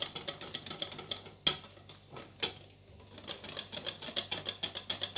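Hand whisk beating cake batter in a bowl, its wires ticking against the bowl rapidly and evenly, about six times a second, in the second half. Two sharper knocks come earlier, at about a second and a half and two and a half seconds in.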